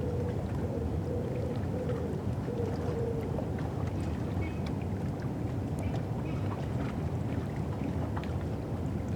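Thames riverside ambience: a steady low rumble with scattered small clicks and ticks, and a faint pulsing hum that stops about three seconds in.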